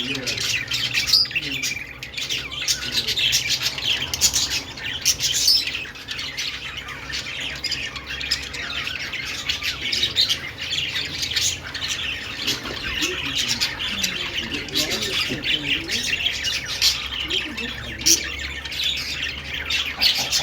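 A group of budgerigars chattering, with continuous rapid chirps, warbles and sharp squawks overlapping one another.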